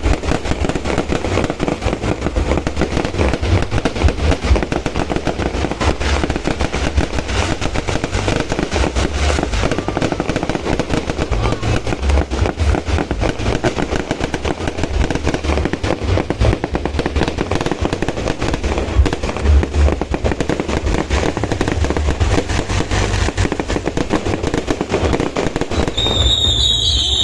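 A fireworks display: a dense, rapid barrage of bangs and crackles with deep booms, breaking off about a second before the end.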